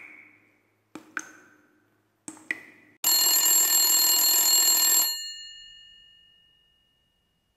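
Three short, sharp pings, each dying away, then a telephone bell rings for about two seconds and fades out.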